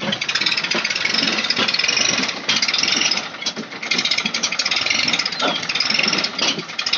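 Tractor engine running hard with a fast, rattling knock.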